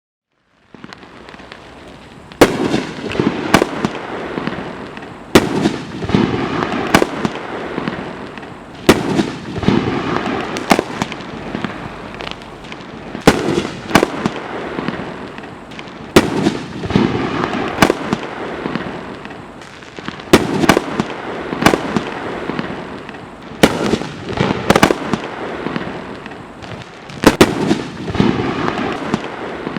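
Dominator Mammoth Assortment 500-gram consumer fireworks firing, starting about a second in: loud, sharp aerial bursts every one to three seconds, often in pairs, over a continuous noisy wash between them.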